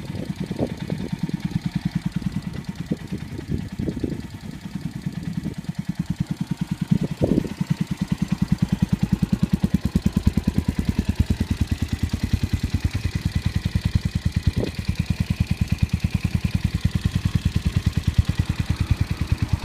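Suzuki Grasstracker's 250 cc air-cooled single-cylinder engine idling through an aftermarket Supertrap muffler, with no air cleaner fitted, giving an even pulsing exhaust beat. The beat is uneven for the first several seconds, then settles.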